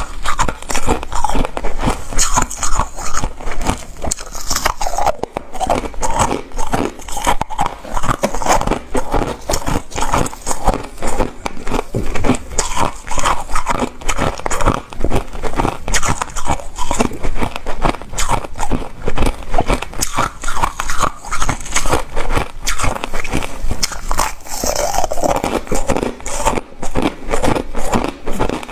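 Close-miked ice being bitten and chewed: a dense, continuous run of crisp crunches and crackles.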